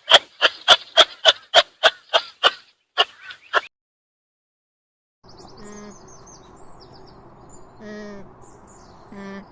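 Animal calls from two separate recordings: first a fast run of about a dozen sharp, piercing calls, roughly three or four a second, that stops after a few seconds; then, after a short silence, a few short pitched calls over outdoor background with high bird chirps.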